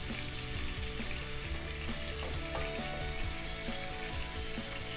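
Chopped onions sizzling as they fry in oil in a pan, stirred with a wooden spatula.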